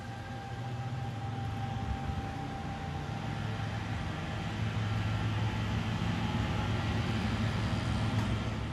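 NJ Transit commuter train running through the station, a steady rumble with a low hum that grows louder as it comes closer.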